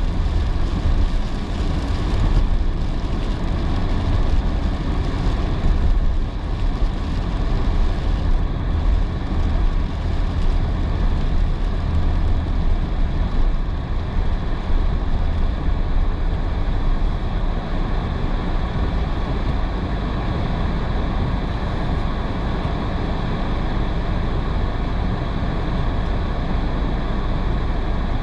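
Steady road noise inside a moving car driving in heavy rain: a deep rumble of tyres on wet road with a hiss of rain and spray. It is more uneven in the first half and smooths out about halfway through.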